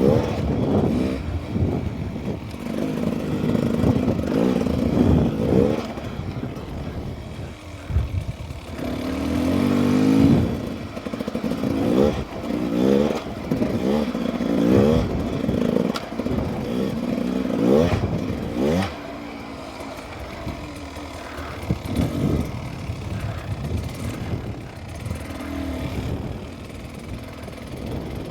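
Dirt bike engine revving up and dropping back again and again as the bike is ridden, with a rising pitch on each pull and some clatter; it runs quieter for the last third.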